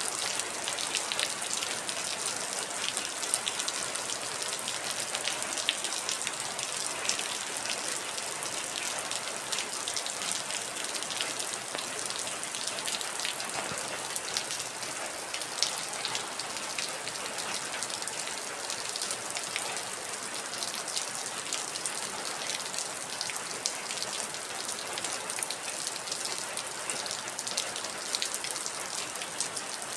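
Heavy rain falling steadily, with a dense patter of individual drops striking a hard surface.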